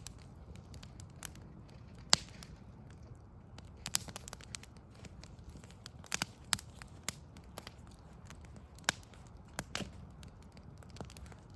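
Backyard wood fire crackling, with irregular sharp pops and snaps, the loudest about two seconds in, over a steady low rumble.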